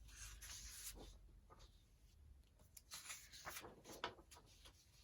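Near silence with faint rustles of printed paper sheets being handled, a few soft crinkles spread through, over a faint low hum that fades out about halfway.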